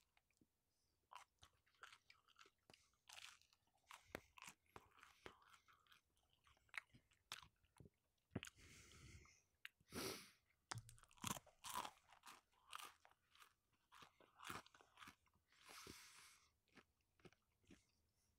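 Faint, close-miked chewing of a crisp slice of ham-and-pineapple pizza reheated in an air fryer: irregular crunches and clicks of the crust between the teeth.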